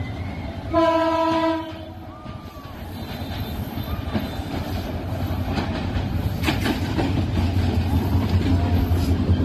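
A train horn sounds once, for under a second, about a second in. The low running rumble of the approaching train then grows steadily louder.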